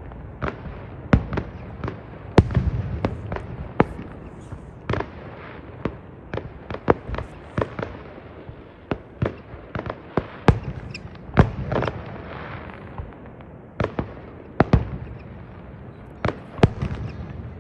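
Fireworks going off: many sharp bangs and pops at irregular intervals, sometimes several a second, over a low rumble.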